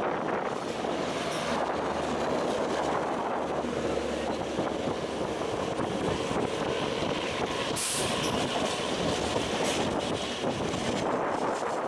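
Train running along the track: a steady, loud rolling noise of wheels on rails, with a brief hiss about eight seconds in.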